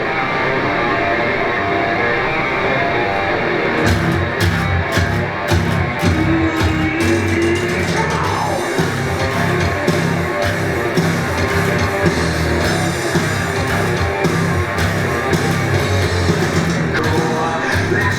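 Rock music with electric guitar; sharp drum hits come in about four seconds in and carry on steadily.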